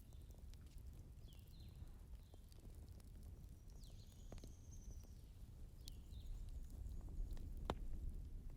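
Wood fire crackling with scattered small pops, one sharper pop near the end, over a low steady rumble; a few faint short high chirps come and go.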